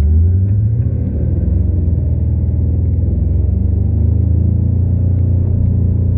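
Supercharged Ford Coyote 5.0 V8 running hard under full throttle, played back at half speed so it comes through as a deep, drawn-out, steady rumble.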